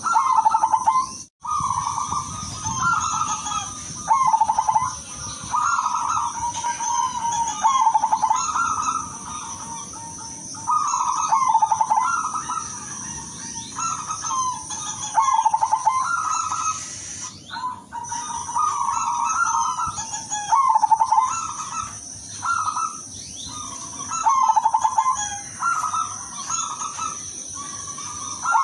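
Silver zebra dove (perkutut) cooing, with short rolling coo phrases repeated every second or two. A steady high-pitched whine runs underneath.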